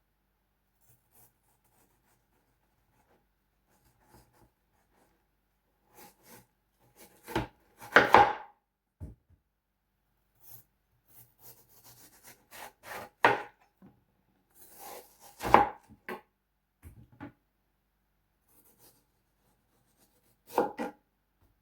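Knife cutting up a large watermelon: a few separate cuts and knocks, with quiet pauses between them.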